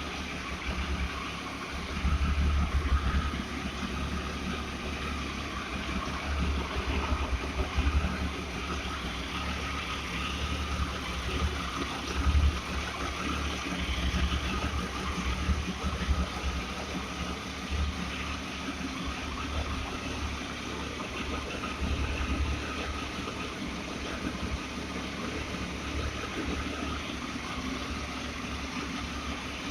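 Triumph Tiger 800 XC's three-cylinder engine idling steadily while still warming up from a cold start, with a few brief louder swells around 2 and 12 seconds in.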